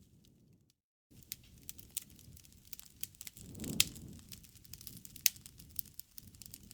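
Campfire crackling steadily, with scattered sharp pops of burning wood and a soft low rustle beneath; two louder pops come a little past the middle. The sound cuts out completely for a moment about a second in.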